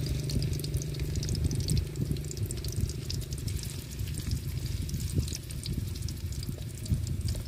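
Fish cakes and garlic frying in shallow oil in a wok: a steady sizzle with fine crackling pops, over a low rumble.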